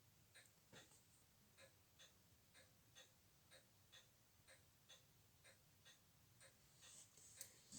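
Faint, steady ticking, about two ticks a second, with a brief scratchy rustle and a sharp click near the end.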